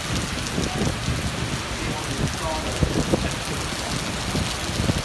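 Heavy storm downpour drumming on surfaces: a steady, dense patter of many small hits.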